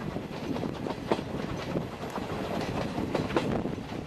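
Steam-hauled passenger train running on the rails, heard from the coach: a steady rumble of the wheels with irregular sharp clacks over the rail joints, two of them louder, about a second in and near the end.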